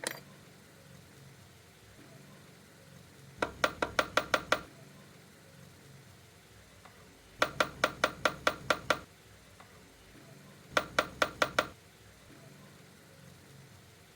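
Three quick runs of sharp knocks, six to nine strikes each at about eight a second, with a single knock right at the start.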